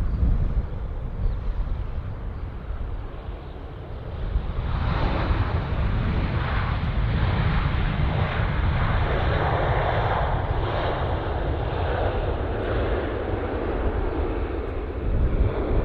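Jet airliner engines, a broad rushing noise over a low rumble that swells about four and a half seconds in and stays loud.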